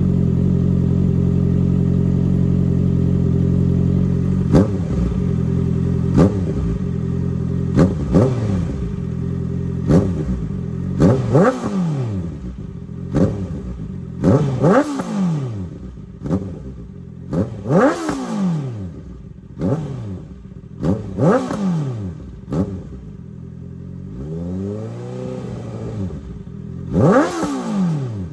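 Honda CB650R inline-four through an open full-system exhaust with no dB killer, idling steadily and then revved in a series of about a dozen quick throttle blips, each rising sharply and falling back. Near the end comes a slower, smoother rise and fall, then one last blip.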